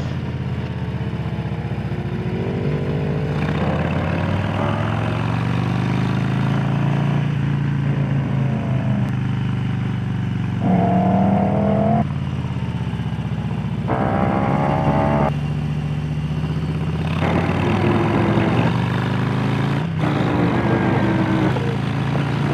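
Harley-Davidson Low Rider S's Milwaukee-Eight V-twin running on the move, its pitch rising and falling as it accelerates and eases off through curves, with short higher-revving stretches around eleven and fourteen seconds in.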